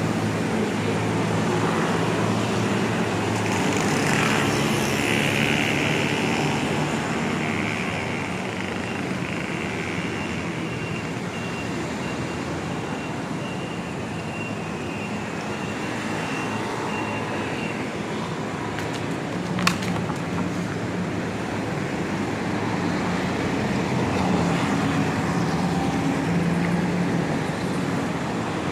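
City street traffic: vehicles running and passing by in a steady roar that swells and eases, with a thin high-pitched tone for a while in the first half and one sharp click about two-thirds of the way through.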